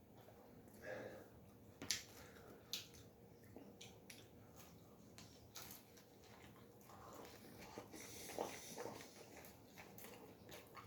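Faint close-miked eating sounds: pizza being bitten and chewed, with a few sharp clicks, the loudest about two seconds in.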